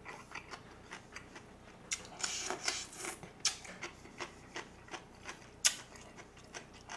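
Close-miked chewing of a pickled green chili pepper from dongchimi: a string of small crisp crunches and wet mouth clicks, with a denser crunchy stretch about two to three seconds in.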